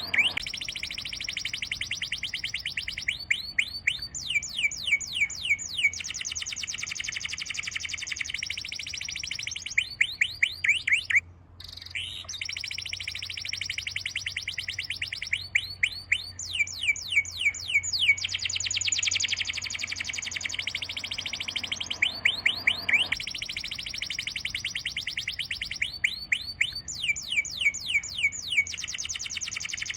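Birds singing: runs of rapid falling whistled notes that recur every few seconds, over a steady dense chirping, with a brief dropout about a third of the way in.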